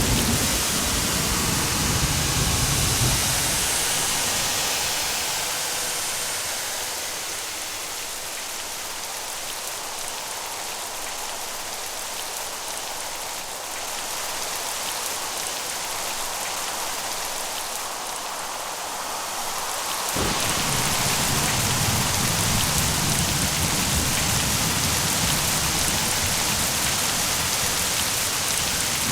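Steady rainfall, with the low rumble of thunder dying away over the first few seconds. About twenty seconds in, the sound changes suddenly to a louder, fuller rain with more low rumble, and it holds steady from there.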